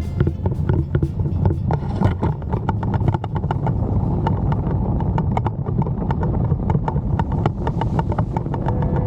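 Motorcycle engine running on the move, a steady low rumble with rapid sharp clicks over it.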